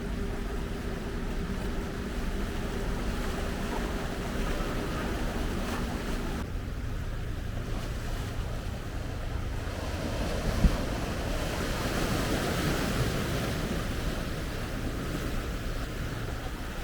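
Seawater washing against the shore, with wind on the microphone. A steady low hum runs under it for the first few seconds and stops abruptly, and the wash swells about two-thirds of the way through, with a single sharp click.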